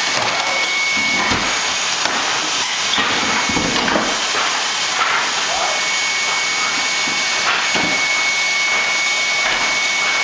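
A motor-driven machine running steadily, giving a rushing hiss with a thin high whine, while knocks and scrapes of work on the floor sound through it.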